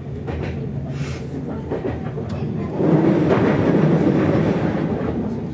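Train running on rails: a steady low running noise that swells about three seconds in, stays loud, then eases slightly near the end.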